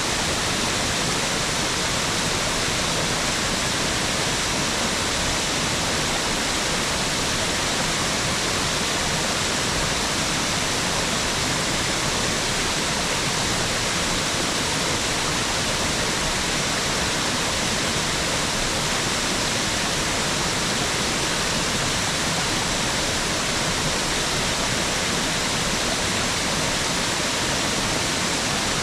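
Mountain waterfall: a steady rush of falling water, even and unbroken throughout.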